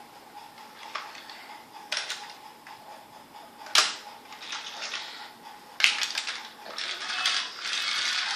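Toy train set pieces clicking and clattering, with several sharp knocks and a busier rattle of clicks in the last couple of seconds.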